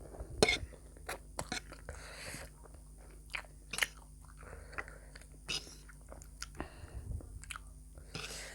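Close-miked eating sounds: a person chewing and biting food, with irregular sharp crunches and clicks.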